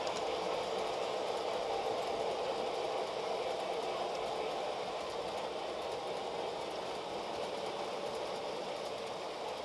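Model trains running on the layout: a steady whirring of small electric motors and wheels on track, with faint regular clicking.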